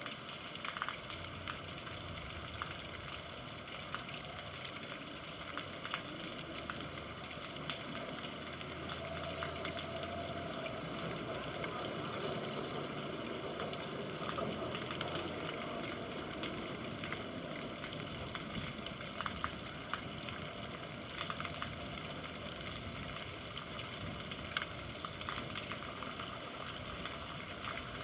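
Steady rain falling, an even wash of noise with many small drop ticks scattered through it.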